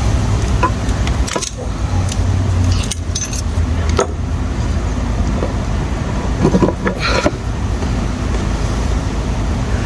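Scattered metallic clinks and scrapes of hand tools and loose transmission parts while a retaining clip is worked off the mainshaft, with a cluster of ringing clinks about six and a half seconds in, over a steady low rumble.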